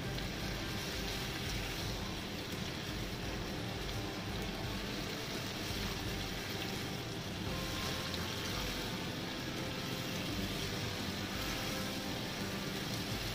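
Fish and vegetables in sweet and sour sauce sizzling steadily in a wok as a spatula stirs them.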